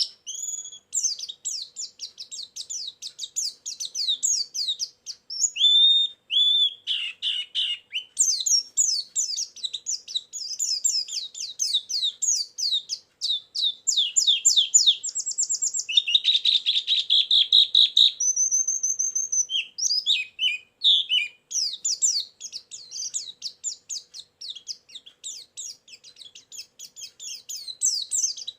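White-eye (pleci) song played as a bird lure: fast, unbroken runs of high chirping notes, broken by a few longer whistles and a buzzy passage.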